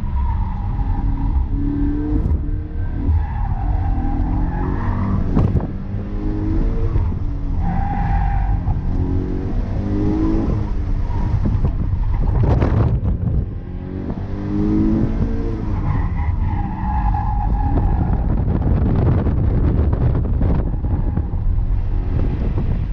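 2015 Subaru BRZ's 2.0-litre flat-four engine heard inside the cabin while the car is driven hard, its pitch rising and falling with the throttle. The tires squeal several times through the corners, and there are a couple of sharp knocks.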